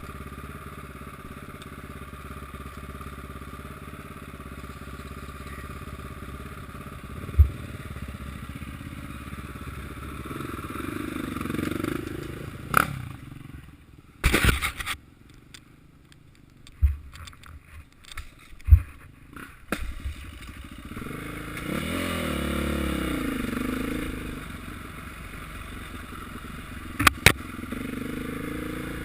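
Motocross motorcycle engines revving, swelling and wavering in pitch twice as bikes go by, with several sharp knocks in between.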